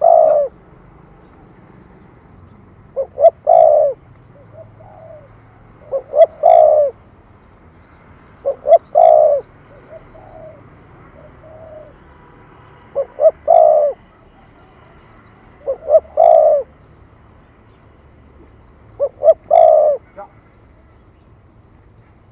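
Spotted dove cooing in the 'thổ thúc gù' style: a phrase of two short notes and a longer drawn-out note, repeated seven times about every three seconds. It is a call used to rouse and lure other doves.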